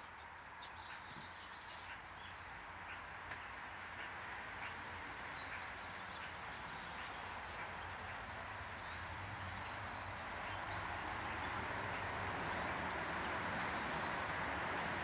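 Small garden birds chirping faintly, with a short burst of high chirps about twelve seconds in, over a steady background hiss that grows slowly louder.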